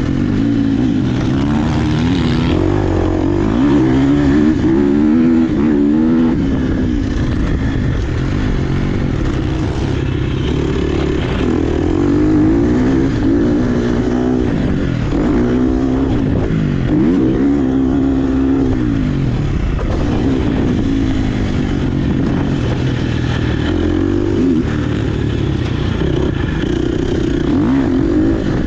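Dirt bike engine heard from on board, revving up and down over and over as the bike accelerates, shifts and backs off while riding.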